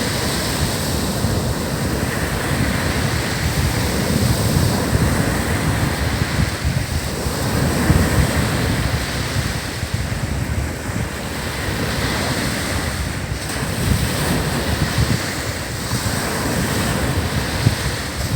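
Ocean waves breaking and washing up a sandy beach in a continuous surge, with wind buffeting the microphone.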